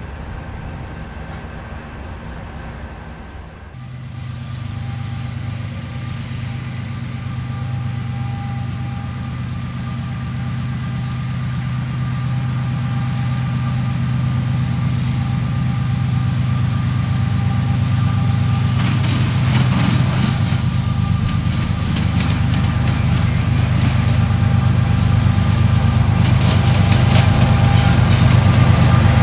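Diesel locomotive engine running with a steady low drone that grows louder as the train comes closer. Rattling and faint high squeals from the wheels on the rails join about two-thirds of the way through.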